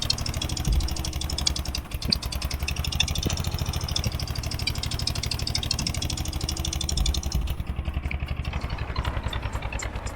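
Eicher 241 tractor's single-cylinder diesel engine running steadily, with a rapid, even beat of firing strokes.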